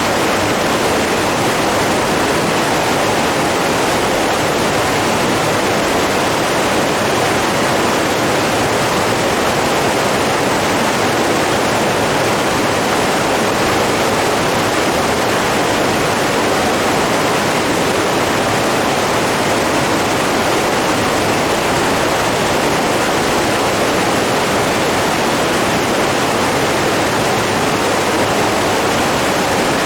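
Steady rushing of flowing water, an even, unbroken noise with no change in level.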